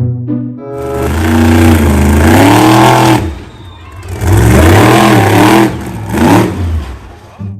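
Car engine revving, its pitch rising and falling in two long, loud bursts with a hiss over it.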